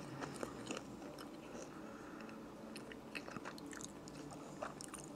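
A person chewing a mouthful of strawberry waffle: faint, scattered soft mouth clicks and smacks.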